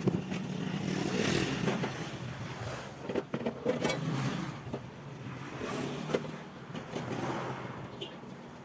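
A steady low motor hum, with scraping and a few short knocks over it.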